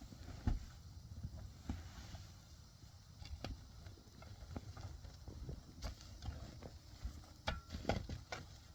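A series of irregular knocks and clicks over a low rumble, a few sharper ones near the end.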